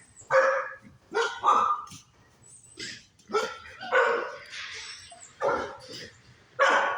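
American Bulldog barking repeatedly at a cat, a series of separate loud barks roughly one a second, some of them drawn out.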